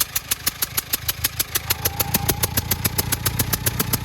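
Clark forklift's four-cylinder Perkins diesel idling with a really loud, sharp rapid ticking, about eight ticks a second. The owner traces it to a leak at a front injector that is not tight.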